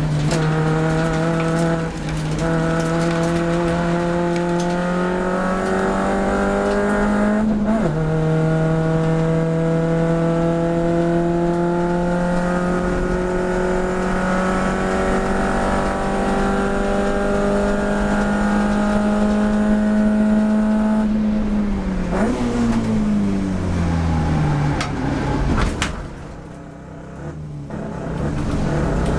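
A car engine at full throttle on track, its pitch climbing slowly through a long pull with a sharp drop at an upshift about eight seconds in. Near 21 s the driver lifts off, the pitch falls in steps as the car slows, the engine is briefly quieter, and then it pulls hard again near the end.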